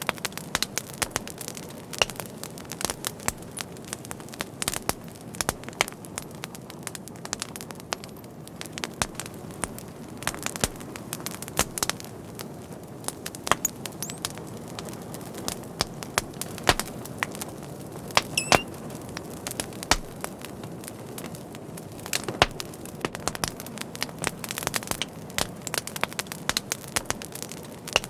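Wood fire burning with a soft steady rush of flame under frequent irregular sharp crackles and pops.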